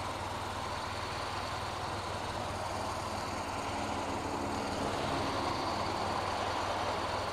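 BMW motorcycle engine idling steadily, with a faint second engine joining in about halfway through.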